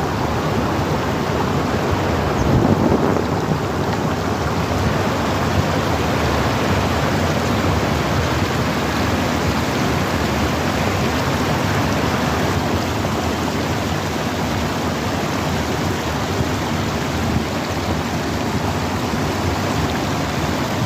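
River water rushing over stones, a steady full noise, swelling briefly about two seconds in.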